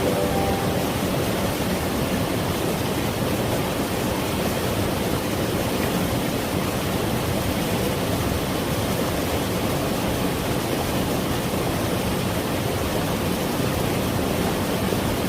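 Mountain valley stream rushing over rocks: a steady, even wash of flowing water.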